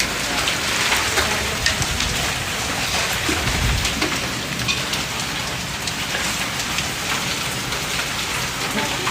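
Steady rain falling, with single drops striking close by as sharp ticks over the hiss. A brief low rumble comes about three and a half seconds in.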